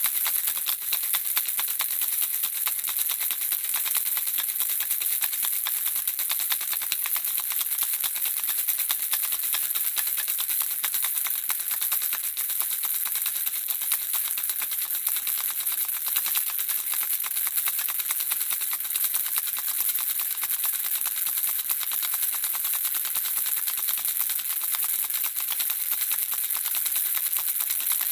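A handheld baby rattle shaken nonstop, with the small pieces inside clicking in a dense, even, high-pitched rattle.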